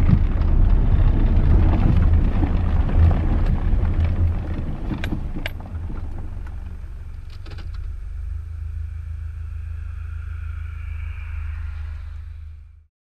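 Car heard from inside the cabin, rolling along and pulling off the road: a loud low road rumble fades as the car slows about five seconds in, with a few sharp clicks, then a quieter steady engine rumble while it sits stopped. The sound cuts off suddenly just before the end.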